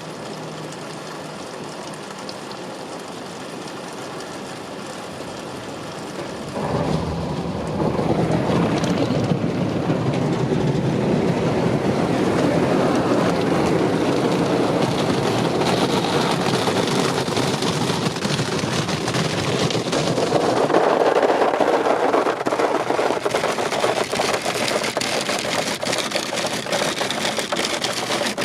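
Ryko Softgloss MAXX soft-touch car wash running over a car: a steady rush of water spraying on the car along with the wash machinery. It gets much louder in two steps about seven and eight seconds in, and stays loud.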